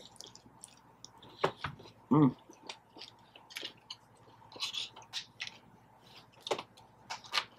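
Close-miked chewing of a fish sandwich: irregular wet clicks and crunches of the mouth working the food, with a brief voiced hum about two seconds in.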